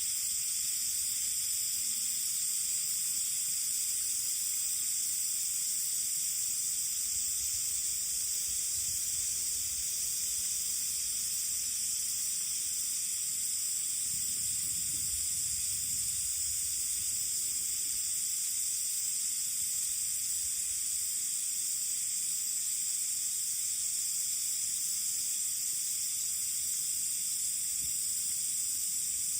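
Steady, even high-pitched chorus of summer insects, with a faint low rumble around the middle.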